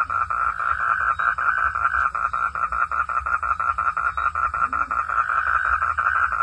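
A frog calling in a fast, even run of pulses, about six a second, without a break. A faint low rising call is heard briefly near the end.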